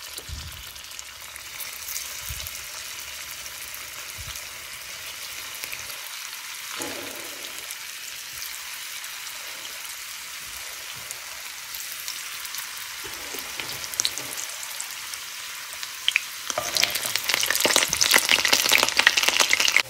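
Vegetarian mock-fish pieces sizzling as they shallow-fry in hot mustard oil in a pan. The sizzle is a steady hiss that turns louder and more crackly near the end.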